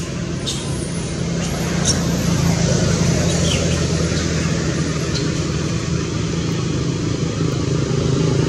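A motor vehicle engine running steadily, getting a little louder near the end, with a few brief high squeaks in the first half.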